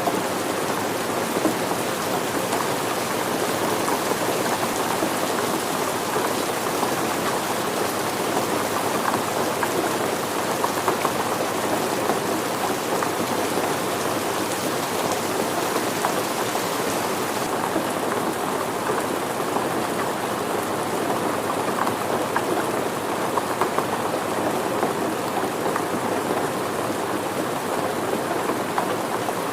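Steady rain falling, a dense even hiss made of countless individual drop hits. The highest part of the hiss softens a little about two-thirds of the way through.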